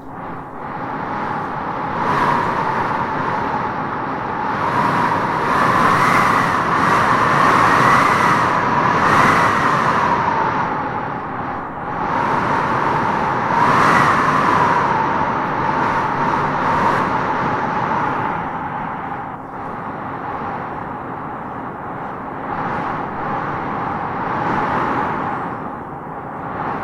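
Howling wind gusting through trees: a steady rush with a whistling howl on top that rises and falls in pitch, swelling into stronger gusts a couple of seconds in and again about halfway through.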